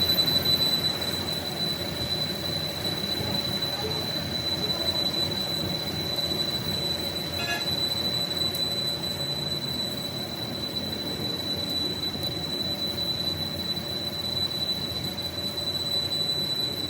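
Metal machining in a workshop: a steady high-pitched whine held at one pitch over a continuous rumbling hiss, typical of a lathe tool cutting steel.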